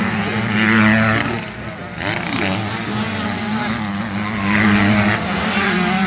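85cc two-stroke motocross bikes racing, their engines revving up and down, loudest about a second in and again between four and five seconds in.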